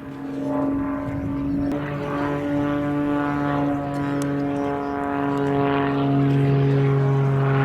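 Propeller aircraft engine drone, a steady hum with a low, even pitch that grows louder over the first second and again toward the end.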